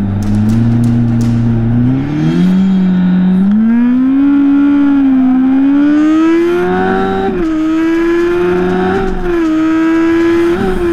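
Drag-racing motorcycle engine accelerating hard down the strip, its pitch climbing steadily with brief dips along the way.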